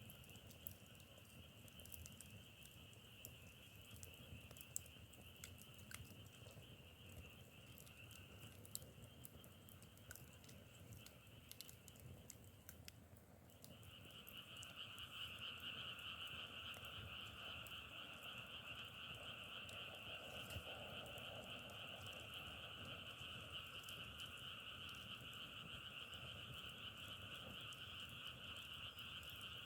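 A chorus of frogs calling continuously, a dense steady trilling. It dips out briefly about halfway through and comes back louder. Scattered sharp clicks sound over it in the first half.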